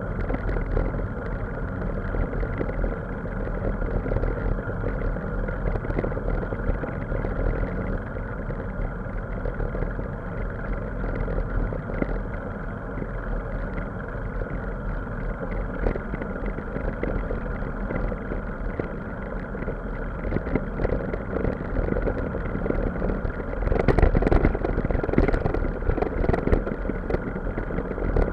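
A vehicle running steadily, growing louder and rougher for the last few seconds.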